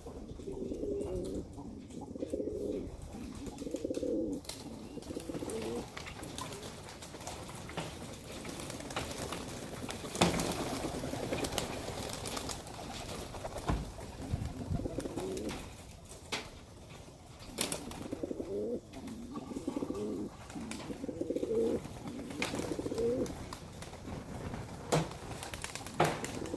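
Domestic pigeons cooing, one low call after another, with a few sharp clicks in between.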